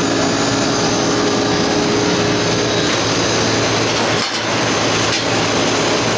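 Outdoor air-conditioning condensing unit running, its fan giving a steady rush of air over a low compressor hum. A higher steady tone drops out about halfway through.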